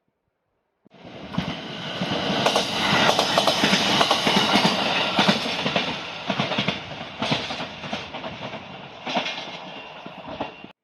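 Train running along the track, wheels clacking over rail joints in a string of sharp clicks. It starts suddenly, is loudest a few seconds in, then eases off before cutting off abruptly.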